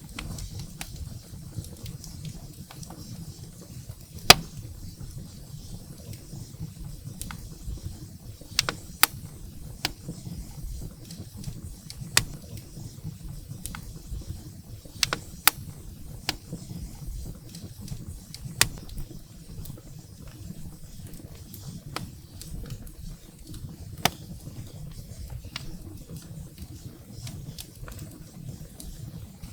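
Firewood crackling and popping in a fireplace: irregular sharp pops, a few every couple of seconds, over a low steady rumble of the flames, with one louder pop about four seconds in.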